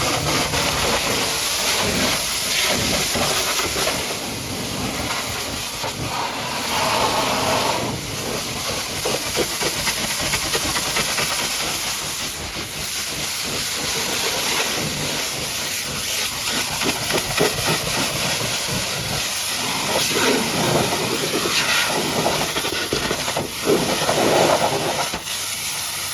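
High-pressure washer jet spraying water onto a truck: a continuous hiss that rises and falls in level.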